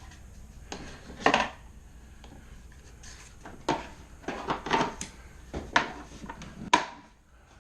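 Irregular knocking and clattering of hard objects being handled and set down, a dozen or so sharp knocks and scrapes at uneven spacing.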